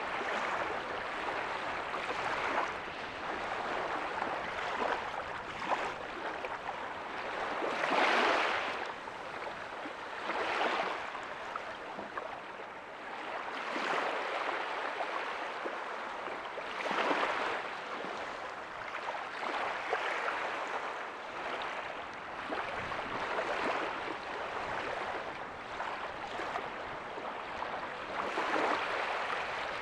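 Small ocean waves breaking softly on a beach: a steady rush of surf that swells every few seconds as each wave comes in, the biggest about eight seconds in and another near the end.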